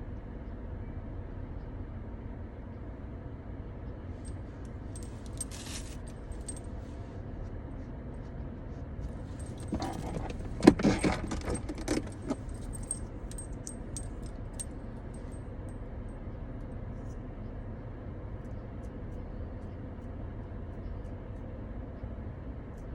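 A brief cluster of clinking and rattling small hard objects about ten seconds in, over a steady low hum.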